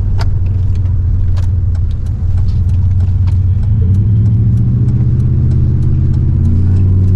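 Car engine running and accelerating, its hum stepping up in pitch a few times, heard from inside the car, with scattered light clicks and rattles.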